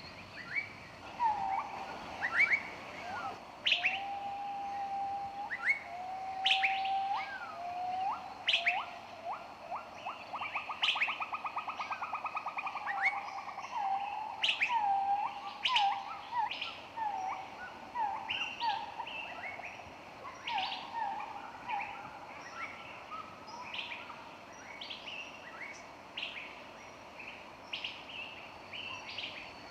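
Several songbirds singing and chirping at once in woodland: short sharp chirps and upward-swept whistles, a few held whistled notes, and a rapid trill that runs for a few seconds in the first half.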